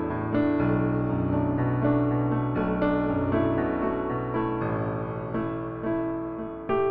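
Background piano music: chords struck about once a second and left to ring.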